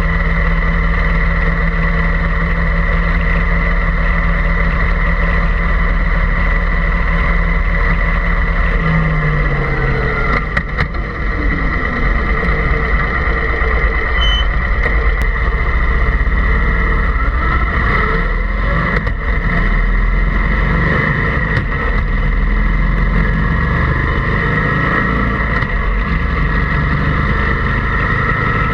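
An engine running steadily, its low pitch dropping a little about nine seconds in.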